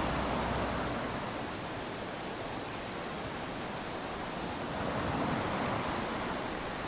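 Small waves lapping and washing onto a sandy beach in a steady hiss that fades after the first couple of seconds, then swells again with the next wave about five seconds in.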